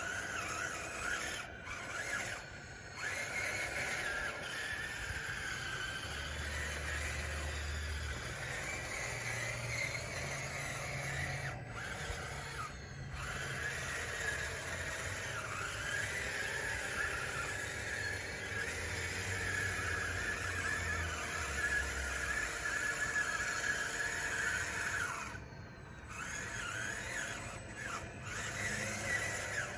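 DXR2 radio-controlled scale bulldozer at work pushing dirt: a steady, squealing mechanical whine with grinding and rubbing from its drive and tracks, wavering in pitch. It drops out briefly a few times.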